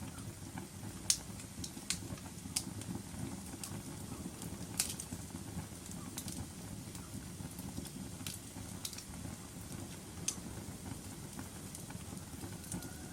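Wood fire crackling in a fireplace: a steady low rumble of the flames with sharp pops and snaps every second or two.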